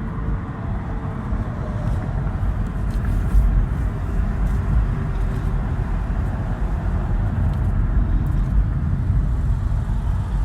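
A car on the move: a steady low rumble of engine and road noise, with a faint steady hum.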